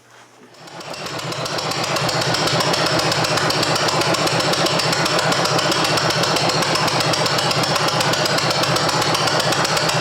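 Wisconsin THD air-cooled two-cylinder engine running steadily with a fast, even firing beat. It fades in over the first two seconds.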